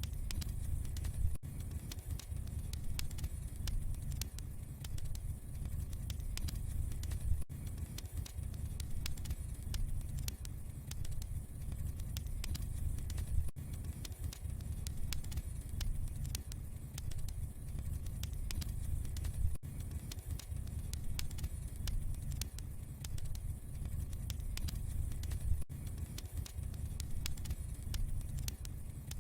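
Wood fire crackling in a fireplace: dense, irregular small pops and snaps over a steady low rumble of the flames.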